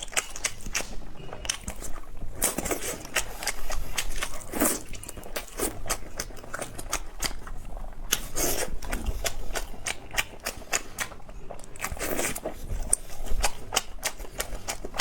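Close-miked eating: chewing with many small wet clicks and smacks of the mouth, and a few longer bites or slurps.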